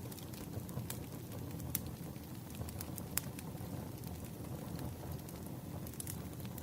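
Wood fire crackling: scattered, irregular sharp pops and snaps over a low, steady rumble.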